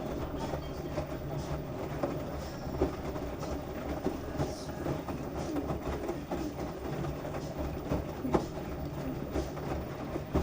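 LG washing machine running with a load of wet towels: a steady low hum and rumble from the drum, with scattered knocks and clatters as the load tumbles.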